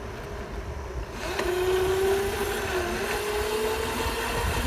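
Dirt bike engine picking up about a second in, its pitch climbing slowly as it accelerates, with wind buffeting the microphone.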